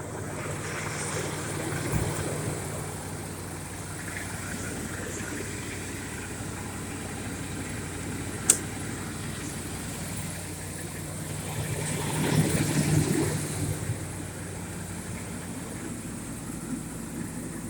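1995 GMC Topkick's 427 gas V8 idling steadily, still warming up after a cold start that followed a month of sitting. There is a thump about two seconds in and a sharp click about halfway through.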